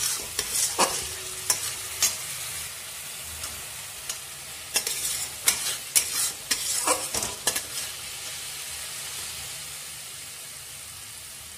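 Onion-ginger-garlic masala paste sizzling in oil in a metal pan, just after the water-mixed ground spices have gone in. A metal spatula scrapes and clacks against the pan as the paste is stirred. The stirring strokes stop about two-thirds of the way through, leaving the steady sizzle.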